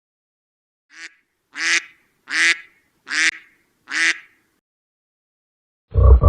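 A duck quacking five times, short harsh quacks about 0.7 s apart. Near the end a louder, lower-pitched pulsing animal call starts abruptly.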